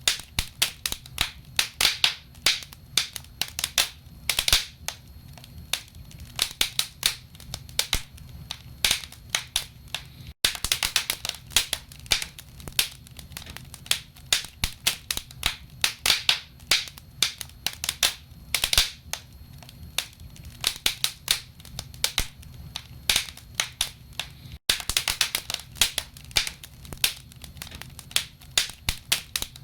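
Wood fire burning in a fireplace: logs crackling with many sharp, irregular pops, several a second, over a steady low rumble of the flames.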